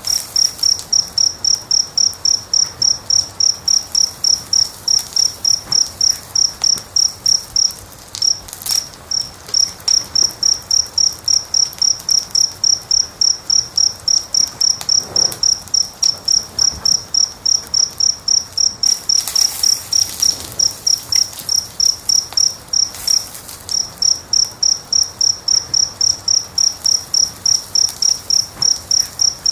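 A cricket chirping steadily in high, even pulses about three or four times a second, with a brief pause about eight seconds in. Faint crackles and pops of a wood fire lie underneath.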